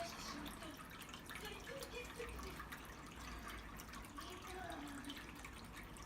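Pet water fountain trickling, with fine dripping water.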